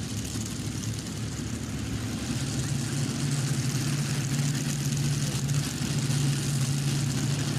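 Modified pulling tractor's three big-block Chevrolet V8 engines running steadily before the pull. A steady low engine tone grows a little louder about two seconds in.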